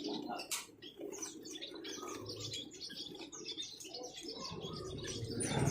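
Many small caged songbirds chirping and twittering together in a dense, rapid chatter, with one sharp click about half a second in.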